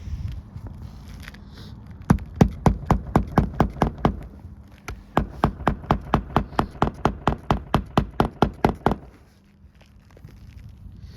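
Hand hammer driving nails to secure roof shingles: two quick runs of strikes, about four a second, the second longer and stopping about nine seconds in.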